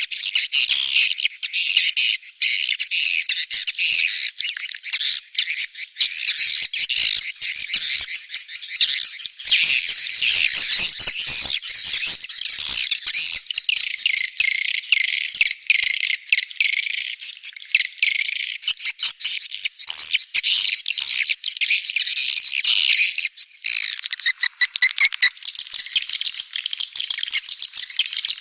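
Edible-nest swiftlets chattering: a dense, continuous stream of rapid high twitters and clicking chirps. It is a recorded swiftlet mating-and-breeding call, of the kind played to lure swiftlets into a nesting house.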